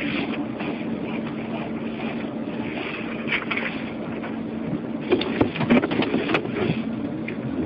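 Steady engine and road noise inside a moving police patrol car, with a constant low hum. A few clicks and brief voice fragments come in a little after five seconds.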